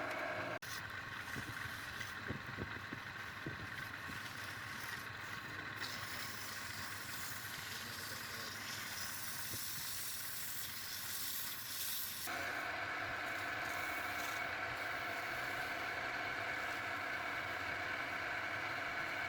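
A motor hum with a steady pitch. About half a second in it cuts to a hissing, scraping noise, and about two-thirds of the way through the steady hum returns just as abruptly.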